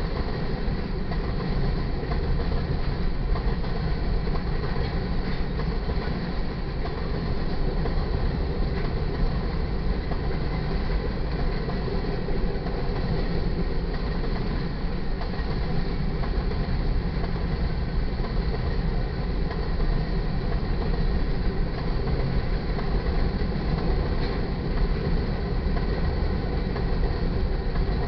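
Freight cars of a potash train rolling past a grade crossing: a steady, continuous rumble of steel wheels on rail.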